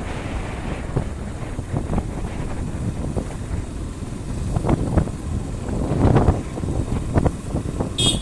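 Wind buffeting the microphone of a moving motorcycle, a steady low rumble with gusty swells. A brief high-pitched horn beep sounds near the end.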